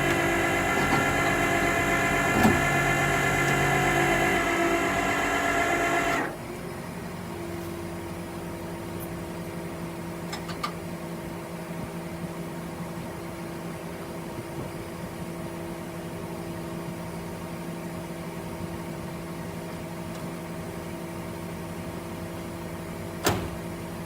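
A loud, steady mechanical whine made of many tones cuts off suddenly about six seconds in. What is left is a vehicle engine idling steadily, with a sharp click near the end.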